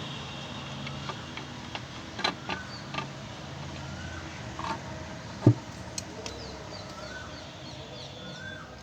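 Scattered metal clicks and taps as the timing cover is set in place on the engine of a Swift Dzire diesel during a timing-chain replacement, with one sharp knock about five and a half seconds in.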